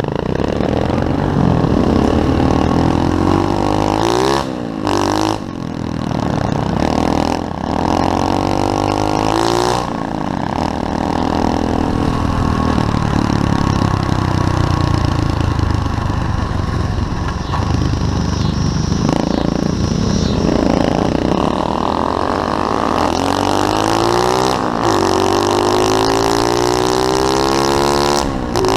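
SSR 125cc pit bike's single-cylinder four-stroke engine running hard while being ridden, its pitch climbing and falling again and again as the throttle is opened and shut, with several brief dips where the throttle is chopped.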